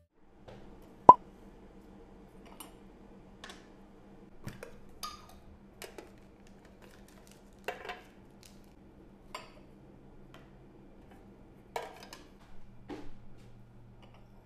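Scattered light knocks and clinks of household objects being handled, about a dozen in all; a sharp knock about a second in is the loudest. A faint steady hum sits underneath.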